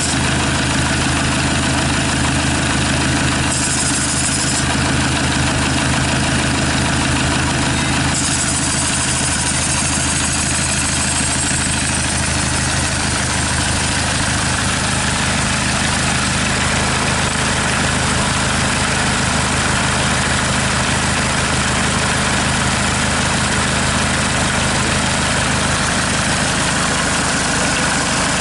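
Hyundai/Kia D4CB 2.5-litre four-cylinder common-rail turbodiesel idling steadily, run out of the car on a test stand. A brief high hiss comes about four seconds in and a longer one from about eight seconds.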